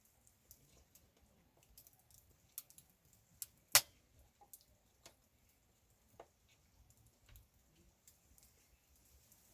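Campfire wood crackling: sparse, irregular sharp clicks, with one much louder pop a little under halfway through.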